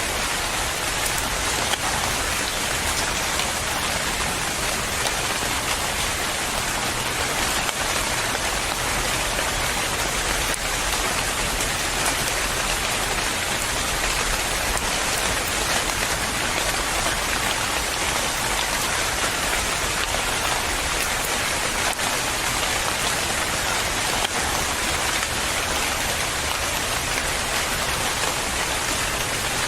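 Steady, dense rain falling on a surface, an even hiss of many drops with no breaks or changes.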